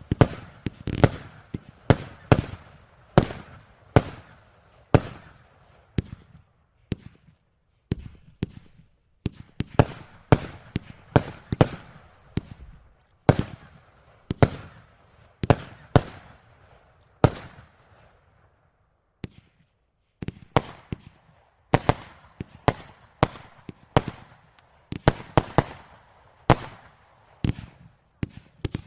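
Fireworks display: an irregular series of sharp bangs from fireworks going off, some in quick clusters, each with a short echoing tail, with a brief lull about two-thirds of the way through.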